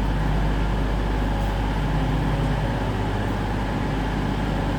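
Class 222 Meridian diesel multiple unit standing with its engines running, a steady low hum that does not change.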